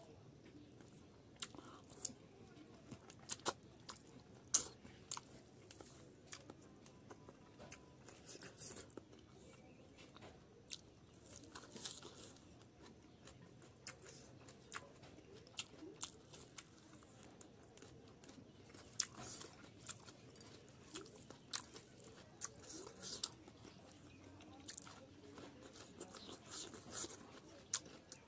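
Close-up chewing of boiled pork fat and rice, with many short, irregular wet smacks and clicks of the mouth.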